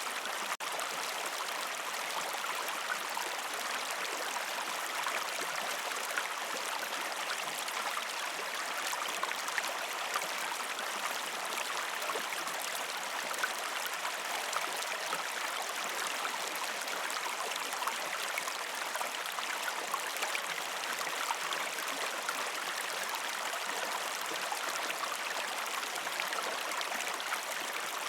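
River stream flowing over rocks: a steady, even rush of water with a momentary dropout just after the start.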